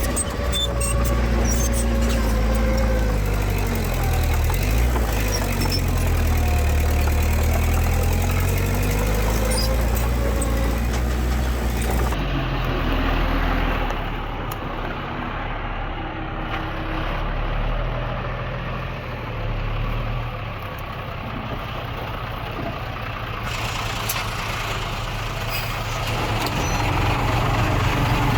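Diesel engines of heavy earthmoving machinery running, the engine note rising and falling over the first twelve seconds. About twelve seconds in the sound changes and drops a little in level, then grows louder again near the end.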